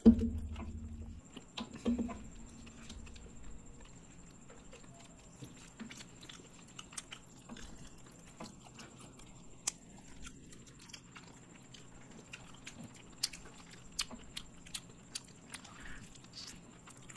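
Close-miked chewing and biting of fried chicken drumsticks, with many small wet clicks and smacks scattered throughout. A sharp thump with a brief low rumble at the very start, and a smaller one about two seconds in.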